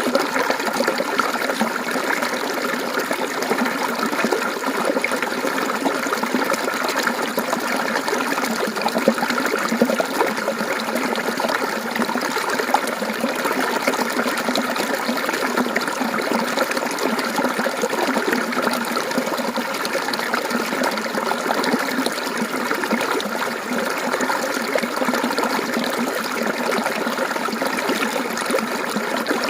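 Mountain stream water flowing and splashing over rocks, a steady babbling that stays even throughout.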